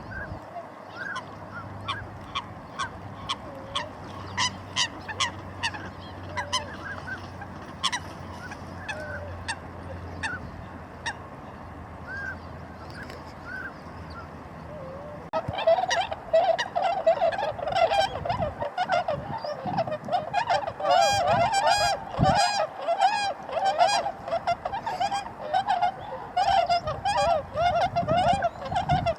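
Tundra swans calling with honking calls, scattered at first. About halfway through it abruptly becomes a much louder, dense chorus of many swans calling at once.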